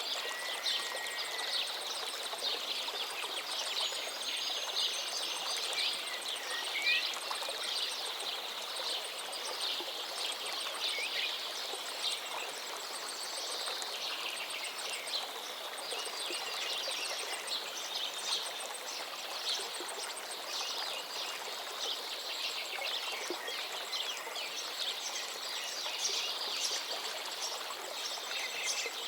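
A forest stream flowing steadily, with many songbirds chirping and trilling over it, including a fast high ticking trill through the first half.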